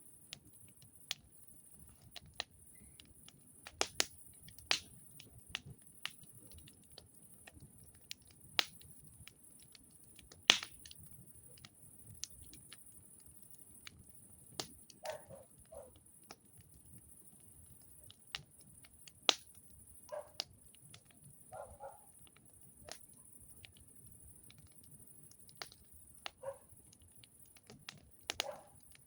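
Wood campfire crackling: sharp, irregular pops and snaps, some loud, spaced a second or a few seconds apart, over a faint steady high hiss.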